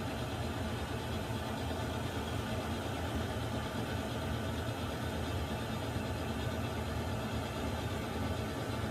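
Water heater running: a steady, unbroken hiss with a low hum beneath it, unchanging throughout.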